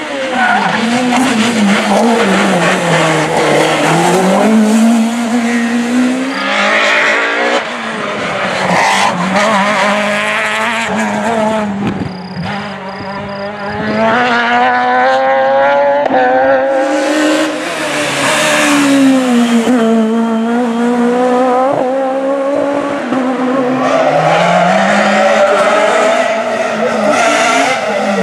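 Peugeot 306 Maxi rally car's naturally aspirated four-cylinder engine driven hard, its pitch climbing and falling again and again through gear changes. It eases off briefly about twelve seconds in before pulling hard again.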